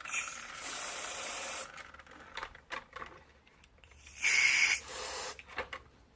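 Plastic gear mechanism of a vintage Fisher-Price Adventure People toy helicopter whirring as the propeller is spun by hand, in two runs: one of about a second and a half, then a shorter, louder one near the end, with a few light clicks between. Freshly lubricated with silicone spray, it runs smoothly rather than crunchy, 'purring like a kitten'.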